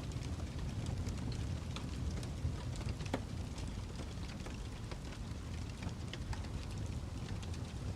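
Wood fire crackling: a steady low rumble with irregular sharp pops and snaps scattered through it.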